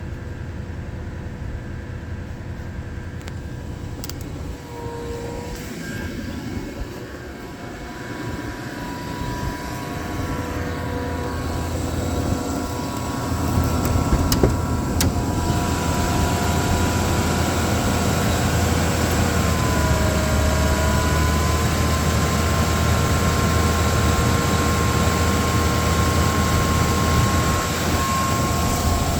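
1998 Infiniti Q45's V8 running at fast idle just after a cold start in about 18 °F weather, with a steady whine that dips and shifts in pitch a couple of times. The sound grows louder about halfway through and then holds steady.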